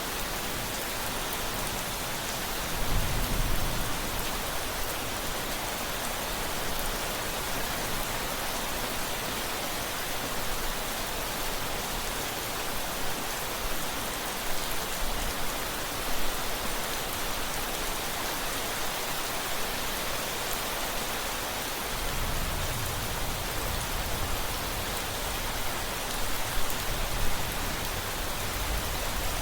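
Steady heavy rain, with low rumbles of distant thunder about three seconds in and again through the last several seconds.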